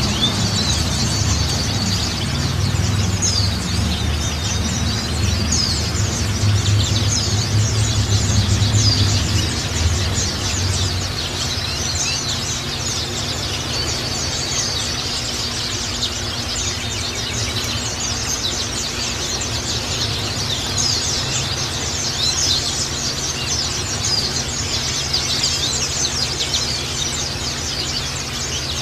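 A flock of white-eyes (pleci) chirping and twittering continuously, many quick high calls and short whistled glides overlapping, over a steady low rumble.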